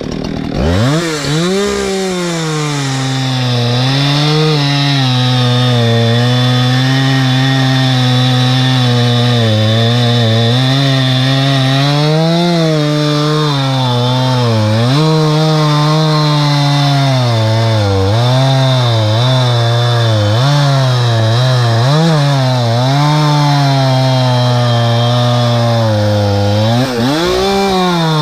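Two-stroke chainsaw cutting wood at high revs. It climbs from low speed about a second in, then its pitch sags under load and picks up again repeatedly through the cut.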